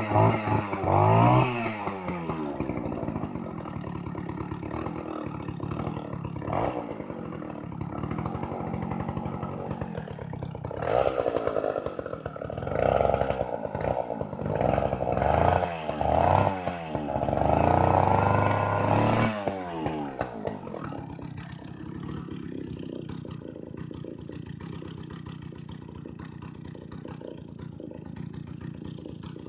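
Two-stroke chainsaw engine running after starting: revved up and down, then given a run of about five sharp throttle blips, then settling to a steady, quieter idle.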